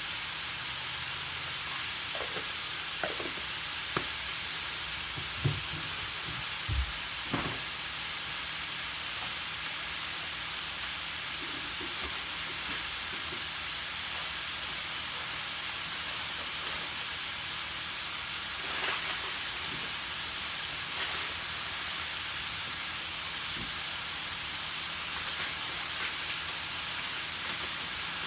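Chopped cauliflower frying in a pan with a steady sizzle, with a few short knocks of a spatula against the pan in the first several seconds.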